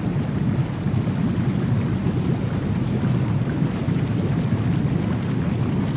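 Steady low rushing noise of wind on the microphone at the seaside, with no separate events.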